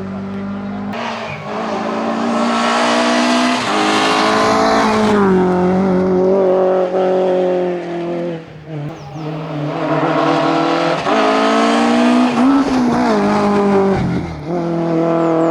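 Citroën AX hillclimb car's engine running hard at high revs as it climbs the course. Its note climbs, then breaks and drops several times as the driver changes gear and lifts off.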